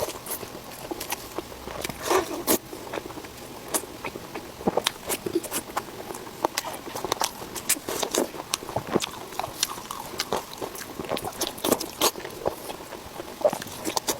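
A person biting and chewing food, with many short, irregular wet clicks and smacks.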